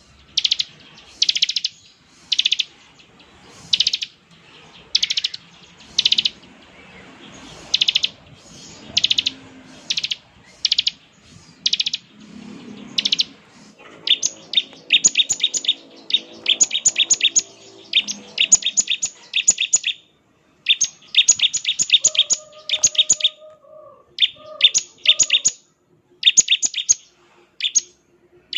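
Bar-winged prinia (ciblek) calling: sharp, high buzzy notes about once a second, then from about halfway a fast chattering in short bursts of rapidly repeated notes, the 'ngebren' song.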